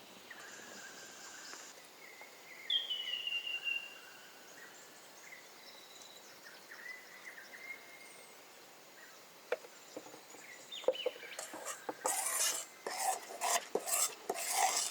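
Birds calling in the bush, including one clear falling whistle about three seconds in. From about ten seconds in, sharp clicks give way to louder clinking, clattering and rustling of camp cooking utensils and dishes.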